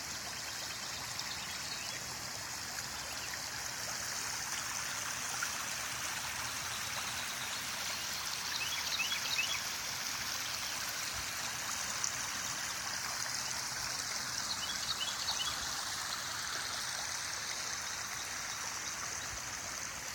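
Creek water running steadily after heavy rain, a constant rushing hiss.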